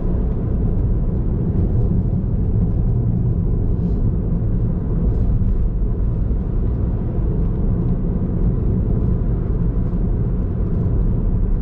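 Steady low rumble of a car driving along, with road and engine noise from the moving car.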